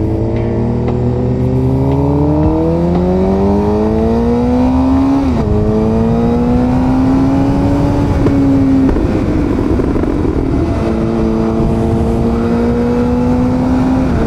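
Suzuki GSX-R750 inline-four engine accelerating through the gears. The pitch climbs steadily, drops at an upshift about five seconds in, climbs again to a second shift around eight seconds, then holds steady at a cruise.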